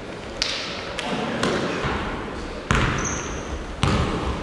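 Basketballs bouncing on a hardwood gym floor: five sharp, irregular thuds with a short high sneaker squeak about three seconds in, over voices echoing in the hall.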